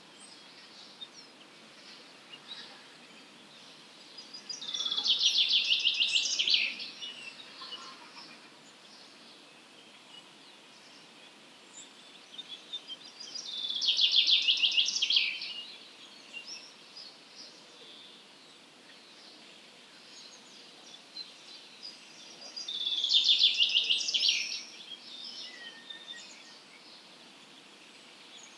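A songbird sings the same short, fast trilled phrase three times, each about two seconds long and about nine seconds apart, with faint chirps from other birds between phrases.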